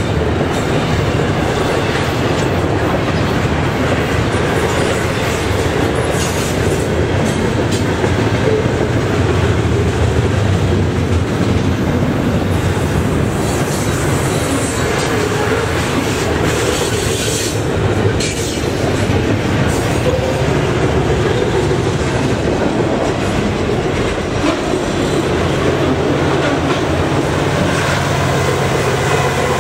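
Double-stack intermodal container cars of a freight train rolling past steadily on the wheels and rails. Near the end the engine note of a diesel locomotive in the train comes in as it passes.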